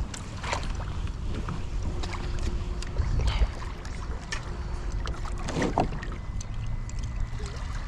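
Fishing kayak on the water: water sloshing and lapping against the hull with a low wind rumble and scattered small knocks.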